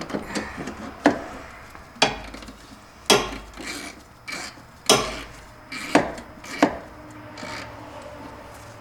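Metal hand tools clanking and scraping against the engine while the fan is being loosened: about six sharp irregular clanks with rubbing between them, tailing off near the end.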